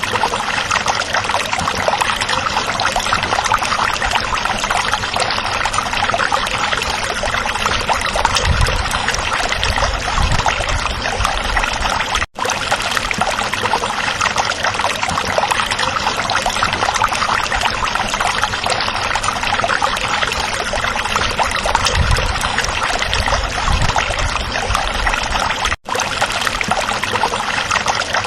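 Stream water flowing and trickling in a steady, continuous rush. It drops out for an instant about twelve seconds in and again near the end.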